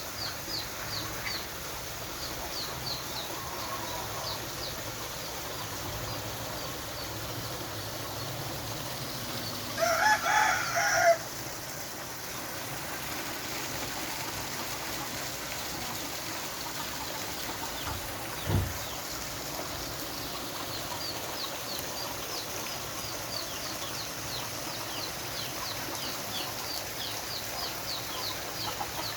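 Steady rush of rainwater pouring down like a small waterfall. About ten seconds in, a chicken gives one loud call lasting about a second. Rows of short high chirps come near the start and again in the last third, and there is a single dull thump a little past the middle.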